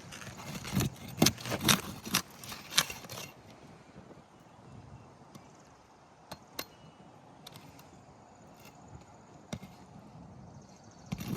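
Metal hand tool scraping and knocking against old asphalt shingles and a roofing nail as the nail is worked loose: a quick series of about seven sharp clicks in the first three seconds, then a few faint ticks.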